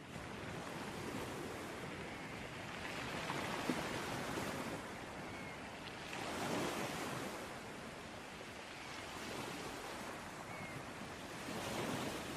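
Ocean surf: waves washing onto a shore as a steady rush, swelling every few seconds as waves break.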